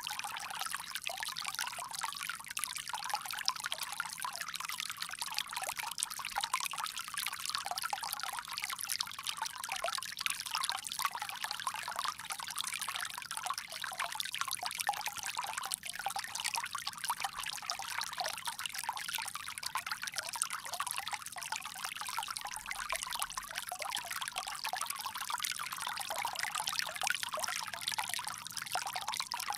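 Water pouring steadily from a bamboo spout, a continuous splashing trickle with no pauses.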